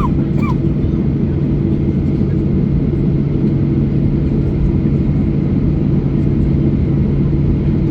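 Steady cabin rumble with a constant low hum inside a Boeing 737-800 airliner on the ground before takeoff.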